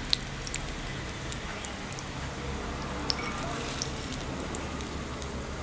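Cashew pieces frying in hot ghee in a small kadai: a steady sizzle with scattered small pops and crackles.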